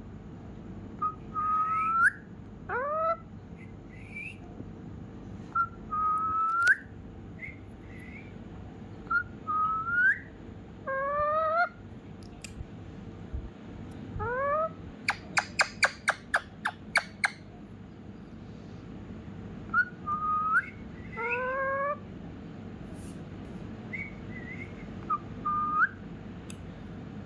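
Indian ringneck parrot whistling: a long string of short, rising whistled notes with pauses between them, and a quick run of about ten sharp staccato notes about halfway through.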